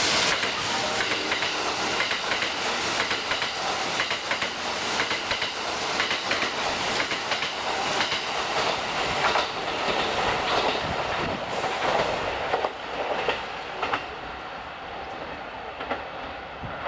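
Kintetsu eight-car charter train of 15200/15400 series and 12200 series electric cars passing through a station without stopping, its wheels clicking over the rail joints. The noise dies down about thirteen seconds in as the last car goes by.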